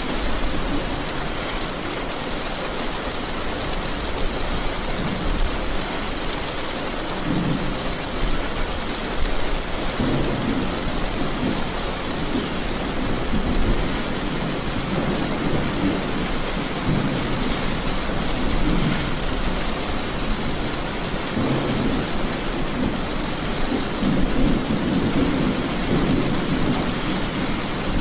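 Steady heavy rain with rolling thunder rumbling underneath, the rumble swelling several times and loudest near the end.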